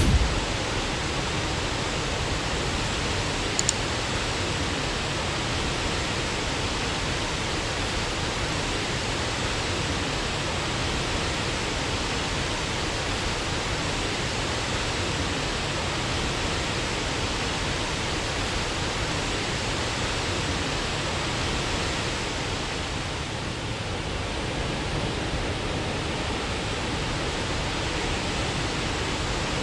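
Waterfall rushing in a steady, even roar of falling water, with one brief click about four seconds in.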